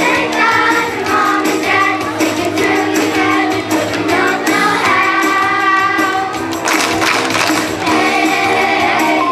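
School chorus singing together over instrumental accompaniment, with a jingling tambourine-like percussion beat.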